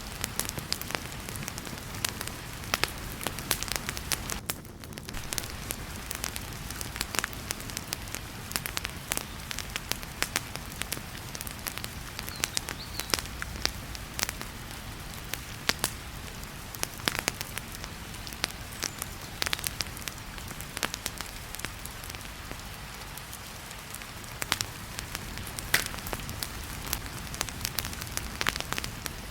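Wood fire crackling in a fireplace, with many sharp irregular pops and snaps, over a steady hiss of heavy rain.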